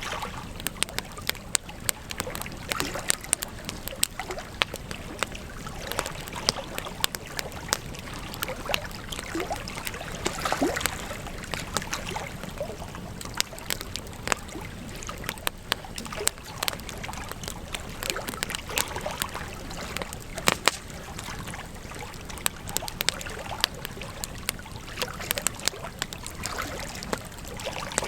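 Wood campfire crackling, with many irregular sharp pops and snaps over a steady rush of burning; a slightly louder stretch about ten seconds in.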